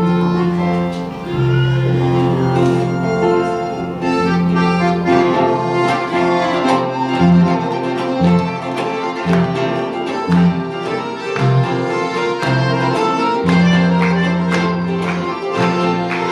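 Upbeat instrumental praise music from a worship band, with sustained bass notes, a string-like keyboard melody and a steady percussive beat that becomes plain about six seconds in.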